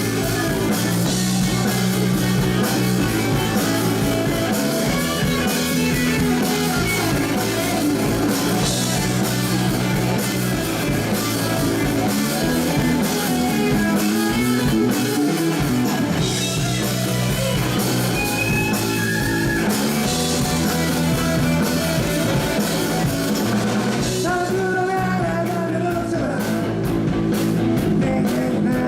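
Live rock band playing: electric guitar, bass and drum kit at full volume. Near the end the cymbals drop back and a sung vocal line comes forward.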